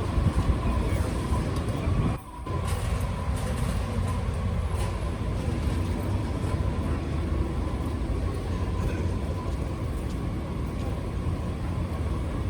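Steady motor-vehicle or transit noise, low and even, with a brief dropout about two seconds in.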